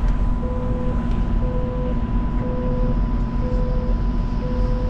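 Alstom Citadis Spirit light rail vehicle standing at a station with its doors open: a steady electrical hum under a short beep that repeats about once a second, five times.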